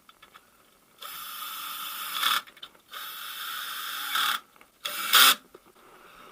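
A handheld power driver runs three times in short bursts, each run ending louder as a fastener is driven home.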